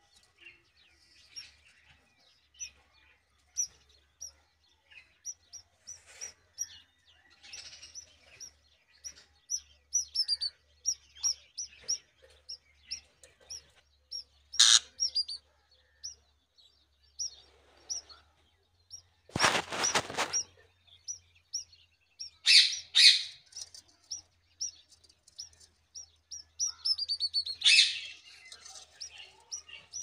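Small birds chirping: many short, high chirps repeating one after another, with louder bunches of chirps late on and a quick falling run of chirps near the end. About two-thirds of the way through there is one loud noisy burst lasting about a second.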